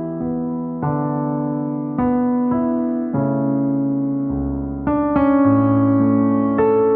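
Background music: slow electric piano chords, a new chord struck about once a second and left to ring.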